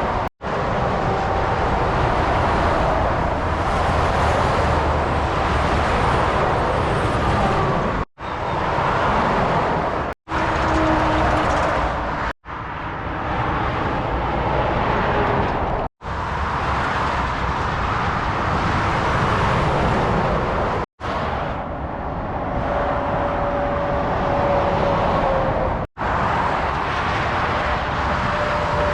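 Motorway traffic, with lorries and cars passing at speed: steady tyre and engine noise and faint sliding pitches as vehicles go by. The sound is broken by several brief dropouts where short clips are joined.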